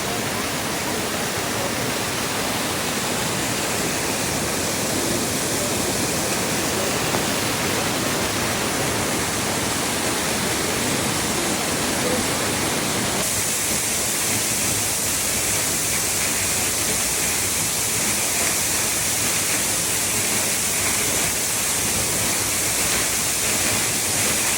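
Waterfall close up: a loud, steady rush of falling water. About halfway through it turns thinner and hissier.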